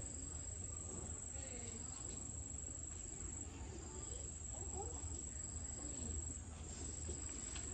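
Insects trilling steadily at one high pitch over a steady low hum.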